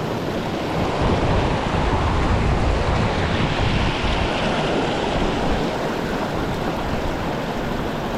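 Steady rushing of mountain-stream water, swelling a little about a second in and easing after about five seconds.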